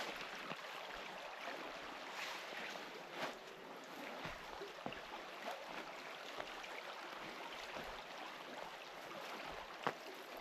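Faint, steady hiss of running water from a small river, with a few light clicks along the way.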